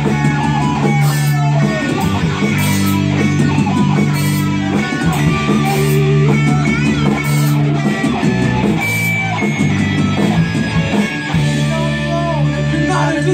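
Live rock band playing an instrumental passage, led by electric guitar over bass and drums.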